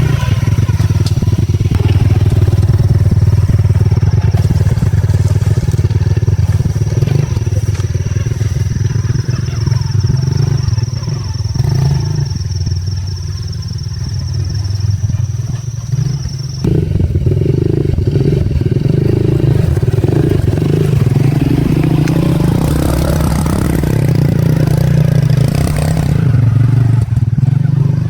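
Motorbike engine running steadily.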